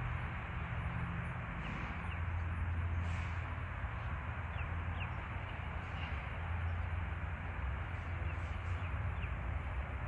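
Several faint, short, high bird chirps scattered over a steady low rumble and hiss of outdoor background noise.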